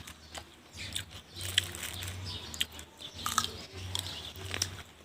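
Someone biting and chewing crisp fresh jujube fruit, with several sharp crunches spread through the chewing.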